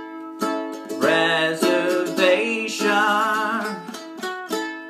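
A man singing a slow song with vibrato, accompanied by a plucked acoustic string instrument.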